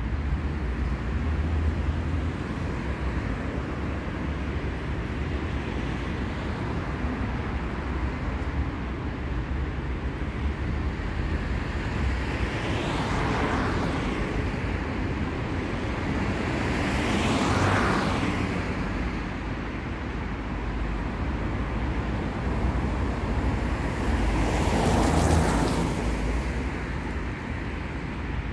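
City street traffic: a steady low rumble of road noise, with three vehicles passing by one after another, each swelling and fading, the last about three seconds before the end.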